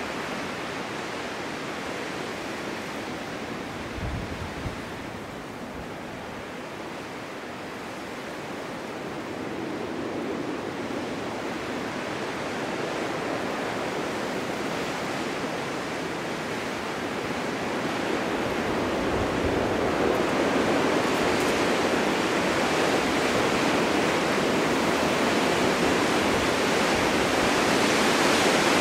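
Wind blowing through a snowstorm, a steady rushing noise that swells louder in the second half, with a couple of brief low thumps.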